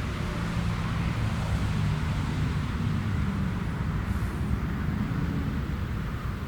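Jet airliner engines running, a steady low rumble with a hiss above it.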